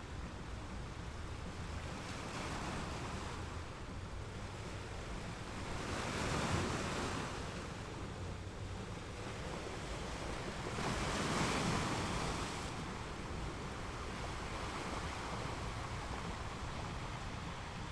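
Ocean waves washing onto a shore: a steady hiss of surf, with two larger waves swelling in about six and eleven seconds in.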